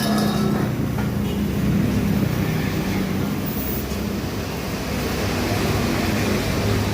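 A motor vehicle's engine running steadily with an even low hum.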